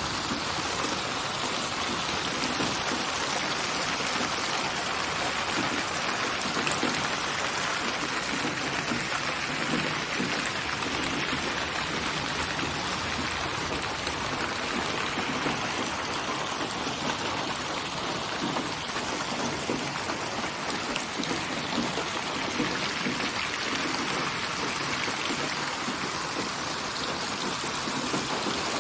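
Steady rain falling: an even hiss with the fine patter of drops, with no change in strength.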